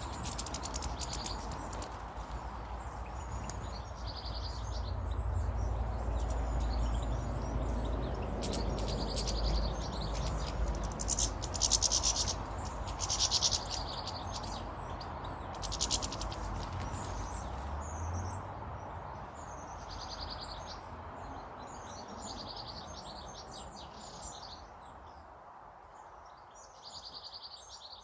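Small birds chirping, short calls repeating again and again, with a few louder harsh bursts near the middle. A low rumble underneath fades out near the end.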